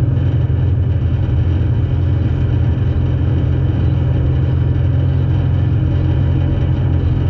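Demolition derby car's engine idling steadily, heard from inside the stripped-out cabin.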